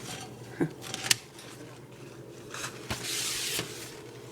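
Light clicks and knocks with a brief scraping rustle about three seconds in, from the melted DVD being handled, over a steady low hum.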